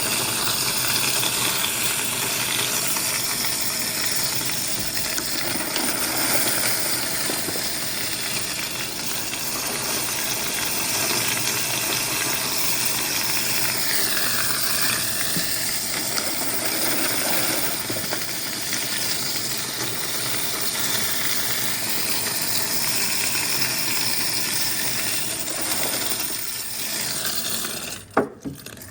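Coin-counting machine taking in quarters: a continuous dense clatter of coins rattling and clinking through the counter, which stops abruptly near the end, leaving a few sharp clicks.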